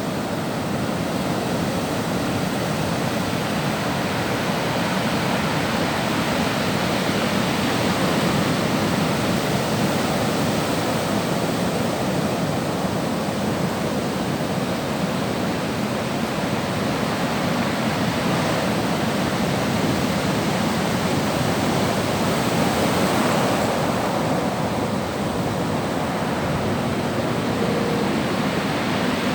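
Sea surf: a steady rush of waves, swelling and easing a little from time to time.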